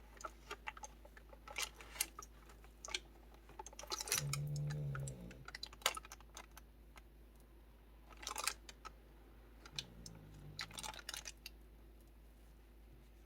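A dog snoring: one loud snore about four seconds in and a softer one about ten seconds in. Around them come light taps, clicks and rustles of the paper pages of a kraft-envelope junk journal being turned and handled.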